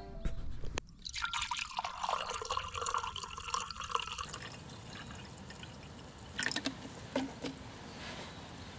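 Liquid being poured into a container for about three seconds, starting a second in, followed by a few light knocks.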